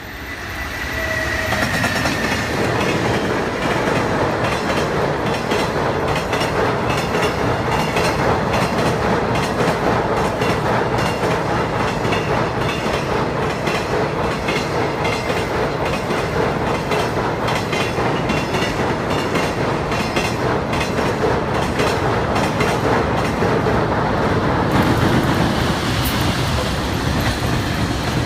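Freight train hauled by an electric locomotive crossing a railway bridge. The wheels of a long run of wagons clatter over the rail joints steadily after a swell over the first couple of seconds.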